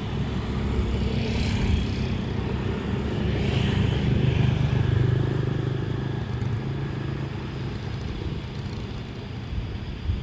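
A vehicle engine running with a low drone. It swells to its loudest about four seconds in, then fades.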